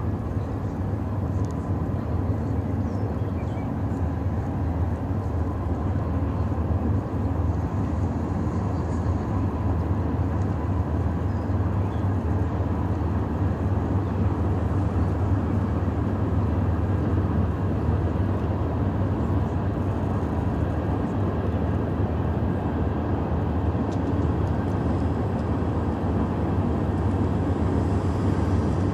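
Steady low rumble of a freight train passing at a distance across a wide river, with no rise or fall as the train goes by.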